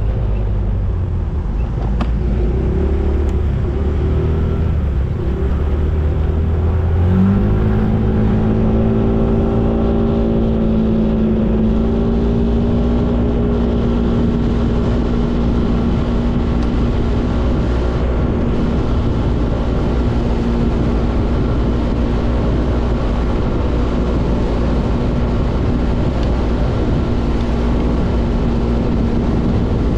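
Motorcycle engine running while riding, with heavy wind rumble on the microphone. About seven seconds in, the engine note climbs and then holds steady.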